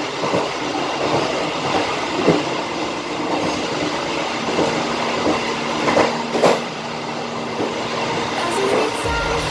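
Passenger train running along the rails, heard from inside its rear carriage: a steady rumble of wheels on track with a few irregular knocks, two close together about six seconds in. A faint steady hum comes in about halfway through.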